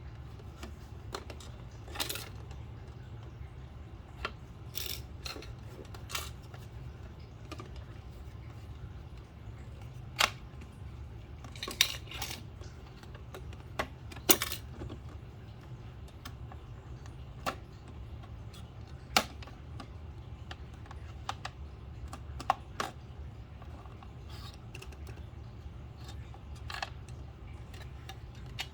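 Scattered sharp clicks and light clatter of small plastic parts being handled, at irregular intervals, over a steady low hum.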